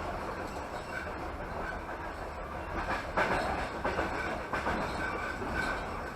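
Passenger train carriage running along the line: a steady rumble of wheels on rails, with a few clacks over rail joints about halfway through.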